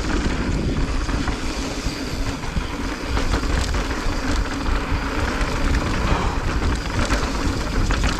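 Electric mountain bike riding down a dirt trail: wind buffets the microphone and the tyres roll over the ground, while the chain and frame rattle and clatter over the bumps.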